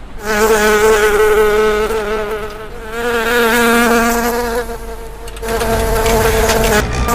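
A cartoon insect's buzz, a loud pitched drone with a slight waver, heard in three stretches with short dips between them.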